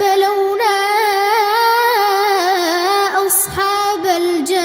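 A child's high voice chanting Quranic recitation in a long, ornamented melodic line, holding notes and bending the pitch, with a brief break for breath about three and a half seconds in.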